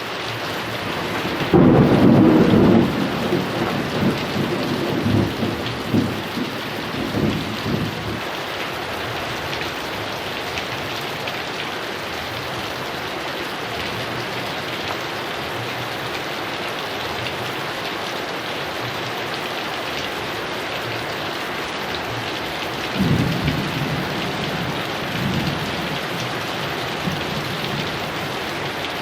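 Heavy rain falling steadily, with a loud clap of thunder about a second and a half in that rolls on in several swells for some six seconds. A second, fainter roll of thunder comes near the end.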